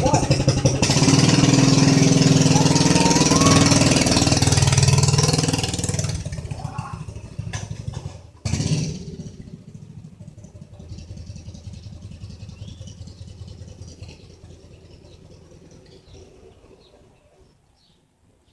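Mini bike's small engine running loud close by, then fading steadily as the bike moves away, with a brief louder surge about eight and a half seconds in, until it is faint near the end.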